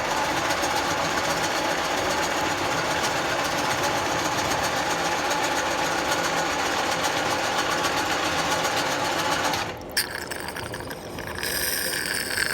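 Milling machine cutting a keyway into a steel crankshaft: a loud, steady running and cutting noise with a fine rapid chatter. About ten seconds in it drops away abruptly with a click, and a quieter, higher whine follows near the end.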